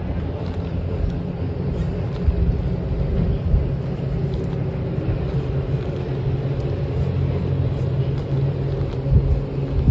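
A steady low rumble with a constant drone, like a motor vehicle's engine running.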